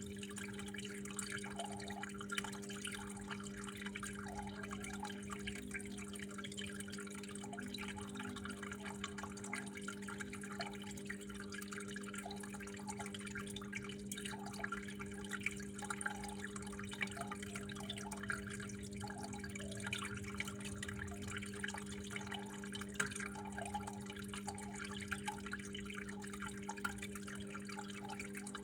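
Water dripping and trickling steadily, with many small irregular drops, over a steady low hum.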